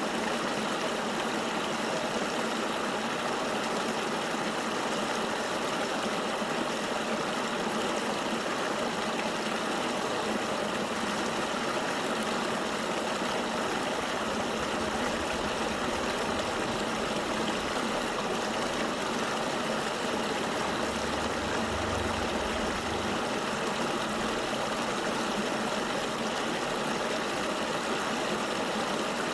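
Steady rushing of flowing river water, an even hiss with no change in level. A faint low rumble rises under it for a few seconds past the middle.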